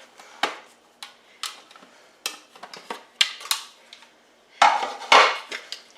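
Kitchen dishes and utensils being handled on a counter: scattered light clicks and knocks, then a louder, longer clatter near the end.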